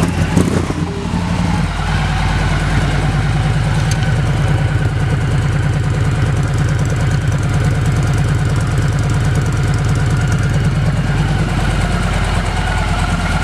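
2015 Victory Cross Country's Freedom 106 V-twin, fitted with an aftermarket exhaust, idling steadily just after starting: low and rumbly, not very loud.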